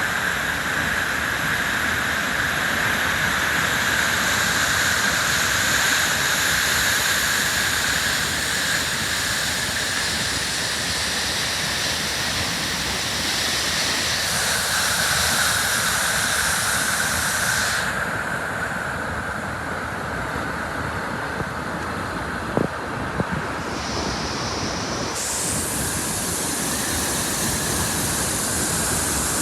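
Waterfall rushing: a steady, dense noise of falling water, with two brief clicks about three-quarters of the way in.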